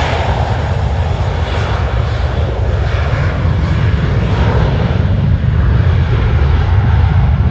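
Jet airliner engines running, a loud steady rumble with a broad roar above it.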